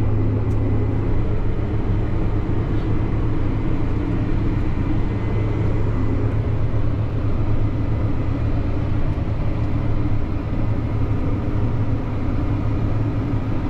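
Farm tractor pulling a grain cart, its diesel engine running at a steady working speed with an even, low drone.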